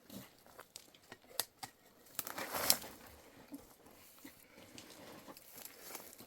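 Rustling and crinkling with scattered small clicks, and a louder rustle about two and a half seconds in.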